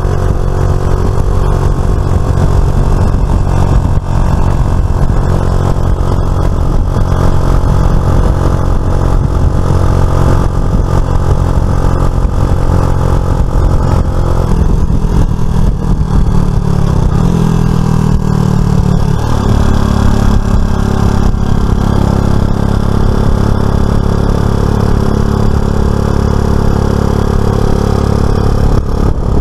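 Motorcycle engine running on the move, held steady, then rising in pitch for a few seconds before dropping back suddenly about two-thirds of the way through.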